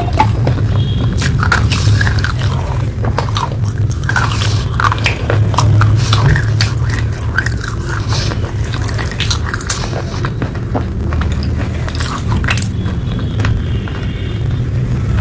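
Close-miked biting and chewing of hard dry clay, with many irregular crisp crunches and crackles, over a steady low hum.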